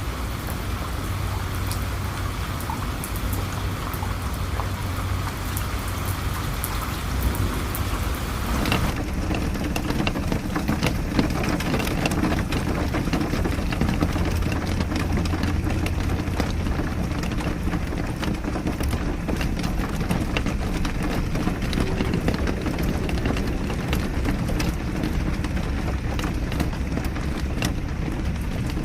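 Steady rain falling, with many individual drops tapping. About nine seconds in the sound changes abruptly to a duller, deeper rain patter.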